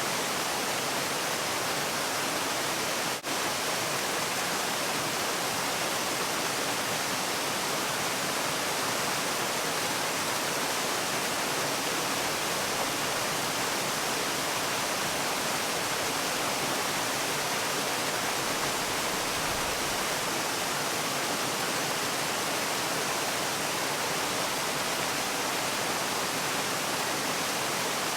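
Steady, even rush of a waterfall, with a momentary dip in loudness about three seconds in.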